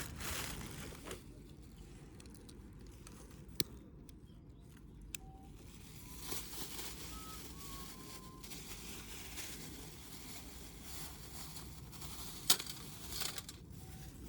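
Steady low outdoor rumble with a few sharp clicks or snaps, the loudest near the end, and faint short whistle-like tones in the middle.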